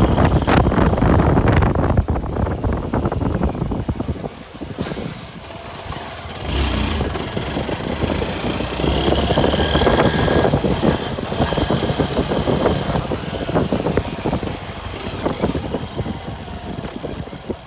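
A road vehicle's engine running on the move, with rushing wind noise. It is loud for the first four seconds, drops for a couple of seconds, then picks up again about six and a half seconds in.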